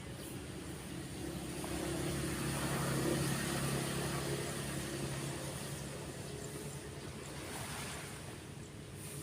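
A motor vehicle passes nearby: its engine tone swells to a peak about three seconds in and then fades away. Beneath it runs the steady wash of waves breaking on the beach.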